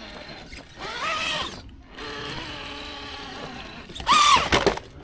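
RC rock crawler's electric motor and gear drive whining under throttle, rising and falling in pitch in short bursts, with the loudest burst about four seconds in and a steadier, lower whine in between.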